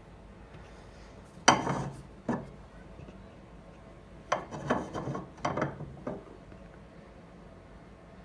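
Hard objects being picked up and set down on a workbench: a sharp knock and a smaller one about a second and a half in, then a quick run of knocks and rattles around four to six seconds in.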